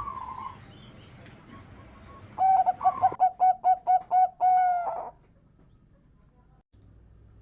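Male zebra dove (perkutut) singing: a run of about ten quick, evenly spaced staccato coos starting a couple of seconds in and ending on a longer drawn-out note, after a brief faint call at the very start.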